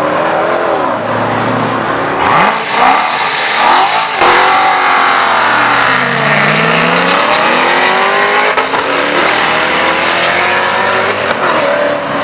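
Chevrolet Corvette C7 Z06's supercharged V8 through a sports exhaust, loud, revving and accelerating hard, its pitch swinging up and down, with a sharp climb about four seconds in.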